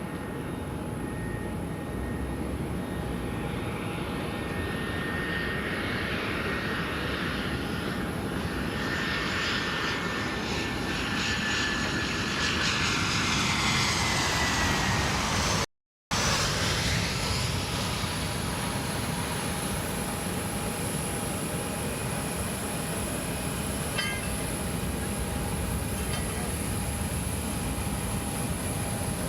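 Citilink airliner landing: a steady engine and airflow rumble with a whine that slides down in pitch, a brief break in the sound about halfway, then a steady rumble with a constant tone as the plane slows.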